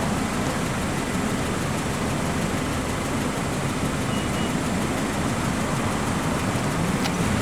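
Steady rumble and hiss of vehicle traffic, with no distinct events.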